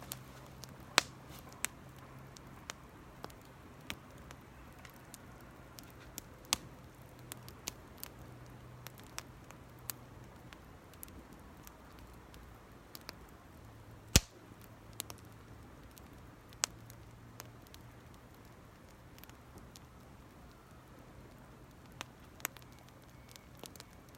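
Small campfire of Japanese cedar twigs and needles crackling: sharp, irregular pops about once a second, the loudest about fourteen seconds in. A faint low hum runs underneath and drops out for a few seconds in the middle.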